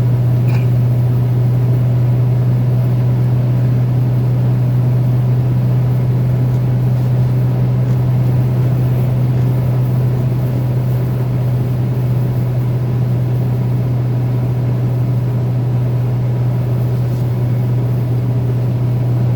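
Steady low drone of road and engine noise inside a vehicle's cabin while cruising on a highway.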